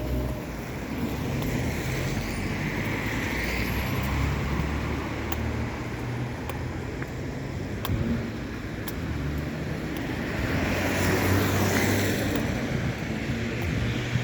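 Road traffic on a wet street: vehicles pass with a rising and fading tyre hiss, once a couple of seconds in and again near the end, over a low steady engine rumble.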